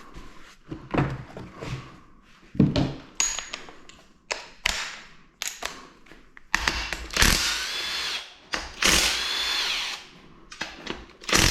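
Power drill spinning a 13 mm socket to run bolts out of a GM 2.4 EcoTec engine, in three short runs, with clinks of tools and metal parts before the first.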